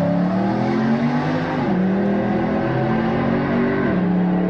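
The supercharged 6.2-litre V8 of a Camaro ZL1 1LE accelerating under load through the gears. Its pitch climbs steadily, then drops at an upshift about a second and a half in and again near the end.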